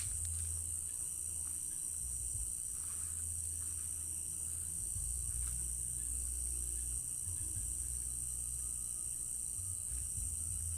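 Night chorus of crickets chirring continuously in one high, even band, with a low rumble underneath.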